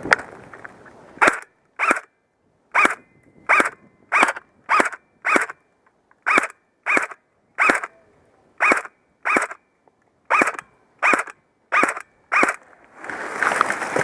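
G4-A1 airsoft rifle firing single shots, about sixteen sharp pops at roughly one to two a second, with short pauses between strings.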